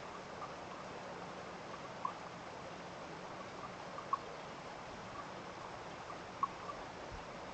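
Steady rush of running water, over which a small animal gives a short, high peep about every two seconds, with fainter peeps between.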